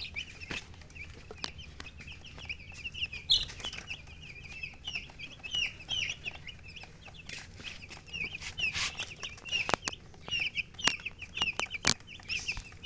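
A group of baby chicks peeping continuously in many short, overlapping high chirps, with scattered sharp taps among them.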